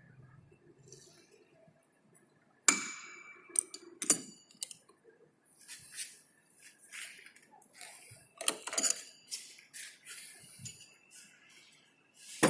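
Steel hand tools and lathe parts clinking and knocking: a sharp clank about three seconds in, another about a second later, then a run of lighter uneven clinks and taps.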